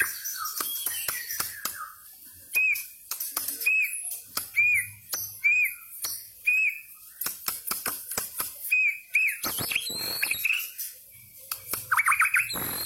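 White-rumped shama singing. It gives falling whistles, then a run of short arched whistled notes repeated about once a second, mixed with sharp clicks, and a fast run of notes near the end.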